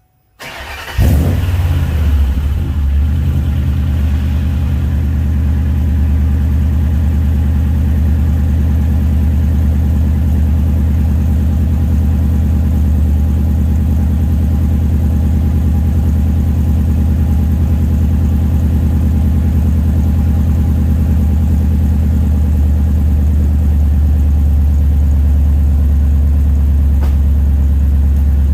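A 2000 Ford F-150's 5.4-litre 32-valve InTech V8, breathing through Navigator manifolds, an equal-length midpipe, a Magnaflow X-pipe and Flowmaster FlowFX mufflers, starts up about a second in with a brief flare. It then settles into a steady, loud idle.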